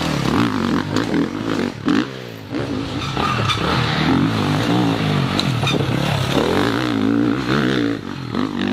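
Motocross bike engines revving hard, the pitch repeatedly climbing and falling as the throttle opens and shuts, with short let-offs about two seconds in and near the end.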